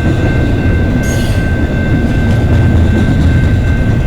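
CN intermodal freight train rolling past: a steady rumble of wheels on rail with a thin, steady high-pitched ring over it, and a brief hiss about a second in.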